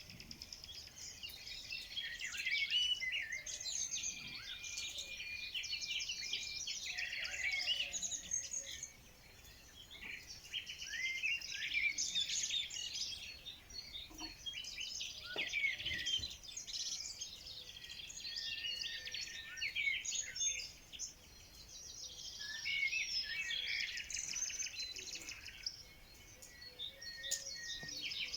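Several songbirds chirping and trilling together in a dense chorus, swelling and easing in waves with brief lulls.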